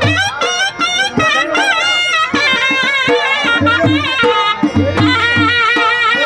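Sarnai, a double-reed shehnai-type pipe, playing an ornamented folk melody with quick wavering bends, over the steady beat of a dhol drum.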